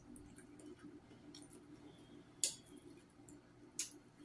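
A person chewing fried fish close to the microphone: scattered wet mouth clicks and smacks, two sharper ones about two and a half and four seconds in, over a faint low steady hum.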